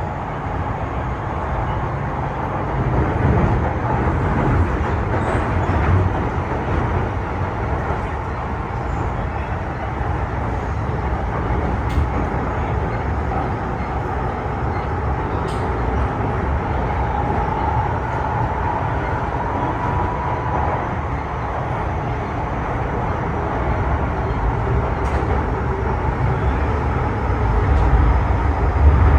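MTR M-Train electric multiple unit running between stations, with a continuous rumble of the wheels on the rails. There are a few faint ticks, and a faint high tone for a few seconds past the middle.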